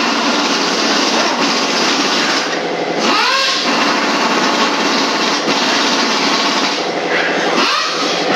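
A small engine running steadily and loudly, with a short pitched sweep rising and falling about three seconds in and again near the end.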